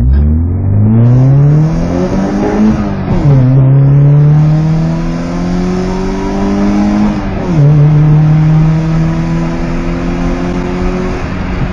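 Peugeot 306 1.8 four-cylinder engine and exhaust under hard acceleration: the engine note climbs steadily in each gear and drops sharply at gear changes about three and seven and a half seconds in, then the revs ease off near the end.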